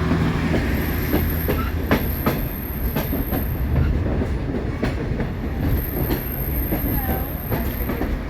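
Passenger train heard from an open coach behind its EMD F40PHM-2 diesel locomotive: a steady engine rumble with wheels clicking over the rails at irregular intervals. A thin high-pitched wheel squeal comes and goes twice.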